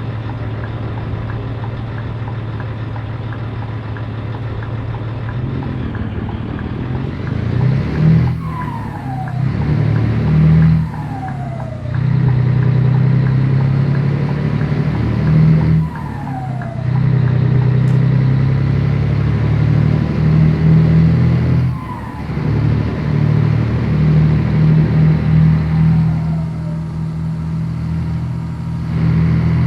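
Scania 113 truck's turbo diesel engine pulling under load, with the throttle lifted for gear changes about four times; at each change the engine note drops briefly and a short whistle falls in pitch.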